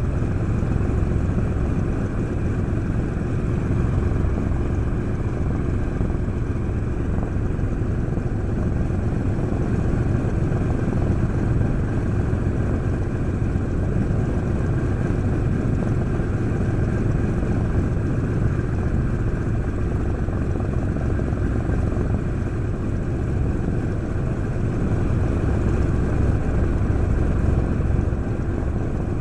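Douglas A-26B Invader's Pratt & Whitney R-2800 eighteen-cylinder radial engine running steadily on the ground, propeller turning, now firing on all cylinders.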